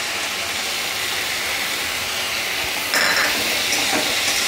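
Diced potatoes and tomatoes sizzling steadily in oil in a kadai over a raised flame. About three seconds in, a spatula starts stirring and scraping the pan and the sizzle gets louder.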